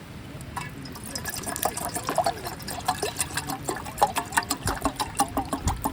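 Water poured or splashed, gurgling with many small splashes and drips, starting about a second in.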